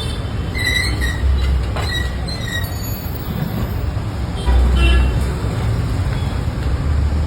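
Busy street noise: a steady low traffic rumble, with brief high-pitched squeaks or clinks scattered through it and a louder low surge about four and a half seconds in.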